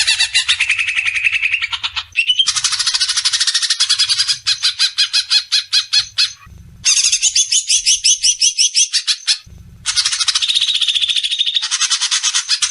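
Recorded songbird song made of fast, dense trills of rapidly repeated notes, in several spliced bursts with brief breaks, used as a master song for training cage birds.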